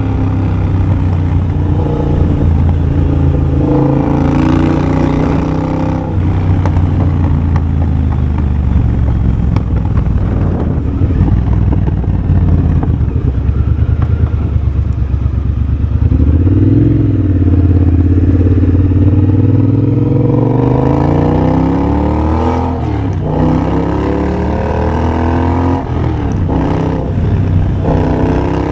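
The 1200 cc parallel-twin engine of a 2023 Triumph Bobber, running through a de-catted X-pipe and a Motone Shorty exhaust, heard while riding. The revs rise and fall several times with the throttle, holding fairly steady for a while before climbing strongly about two-thirds of the way in and again near the end.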